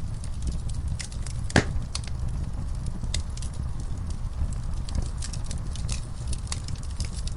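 Wood fire in a fireplace burning with a steady low rumble and irregular crackles and pops, one sharp pop about one and a half seconds in.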